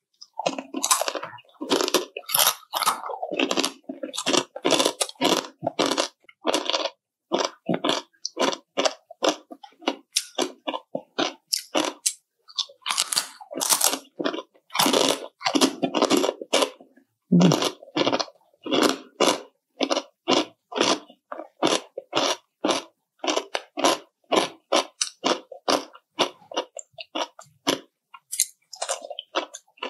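Close-up chewing of crispy chicharon (fried pork cracklings): a steady run of loud, sharp crunches, about two or three a second, with only brief pauses.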